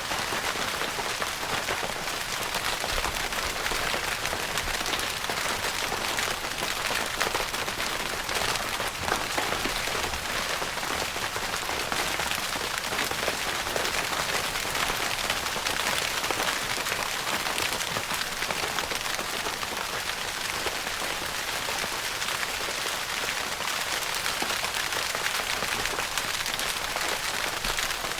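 Steady rain pattering on a tent's fabric roof, a dense even hiss of countless drops with occasional distinct drop taps.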